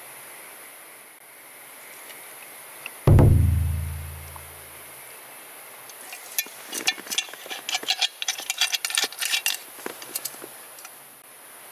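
A single deep thud about three seconds in, with a low ringing that dies away over a second or so. Later comes a few seconds of rapid, irregular clicking and clinking. A steady hiss of flowing water runs underneath.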